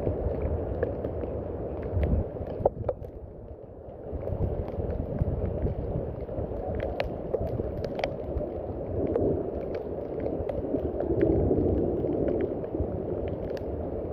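Steady rain with a low, dull sound and scattered sharp drip ticks, briefly easing about three seconds in.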